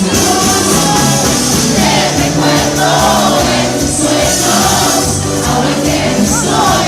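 Live band music at full volume, with several voices singing a melody over the band.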